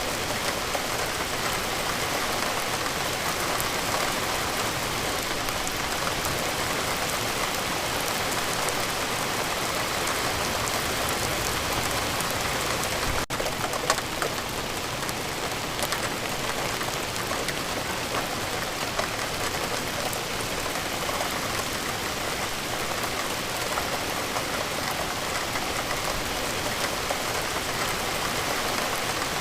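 Steady rain falling, an even hiss with many fine individual drop ticks, broken by a momentary gap a little before halfway.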